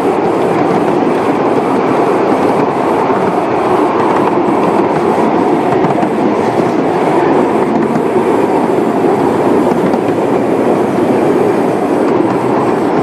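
A train running along the track: a loud, steady noise of wheels on rails that holds throughout.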